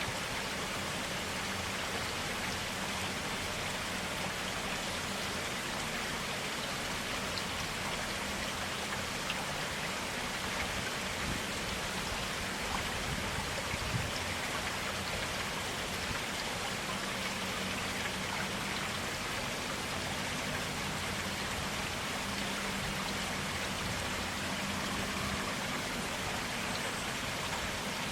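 Clear water of a forest stream running steadily, an even rushing hiss with small scattered drips and splashes.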